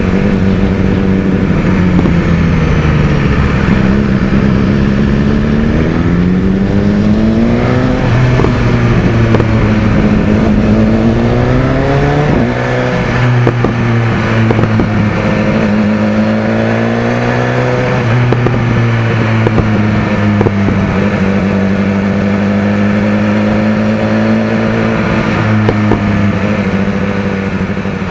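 BMW S1000XR's inline-four engine running through a Termignoni exhaust, its pitch climbing twice, dropping sharply about twelve seconds in, then rising gently and holding steady.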